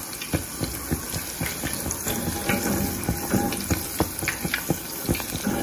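Custard-soaked bread slices frying in hot oil over a low flame: a steady sizzle with many small crackles and pops.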